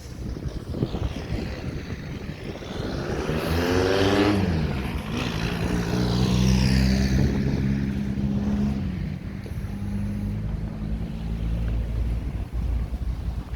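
Street traffic: a motor vehicle passes close about four seconds in, its engine pitch sliding down as it goes by. The steady hum of another engine follows.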